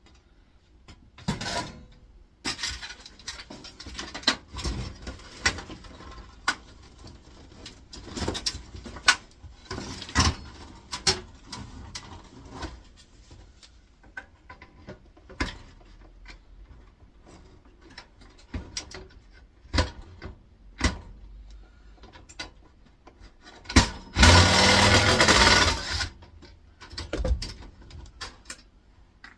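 Metal parts of an air fryer being handled and pulled apart: scattered clinks, taps and knocks. Near the end comes one loud burst, about two seconds long, of a small motor whirring.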